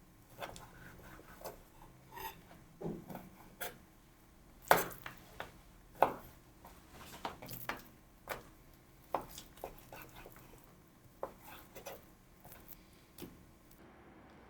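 Irregular kitchen handling sounds: scattered knocks, clicks and light scrapes of utensils and dishes, with two louder knocks about five and six seconds in.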